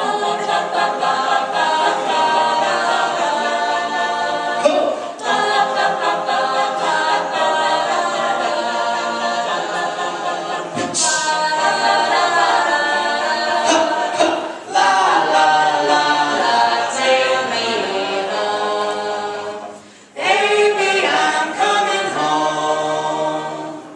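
A cappella vocal group singing in close harmony with no transcribed lyrics, pausing briefly several times.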